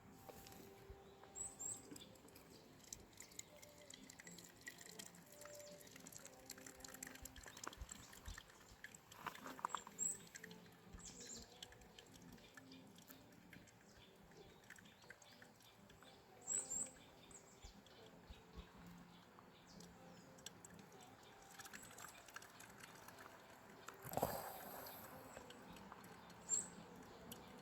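Quiet outdoor ambience with faint rustling and small ticks. A few short, high bird chirps come now and then, and there is a louder rustle about 24 seconds in.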